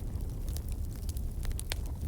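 Wood fire in a fireplace crackling, with scattered sharp pops over a steady low rumble; one louder pop near the end.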